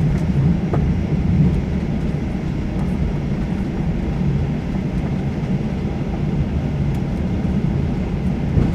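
Steady low rumble inside the cabin of a Boeing 737-800 taxiing after landing: its CFM56 engines running near idle and the landing gear rolling on the taxiway.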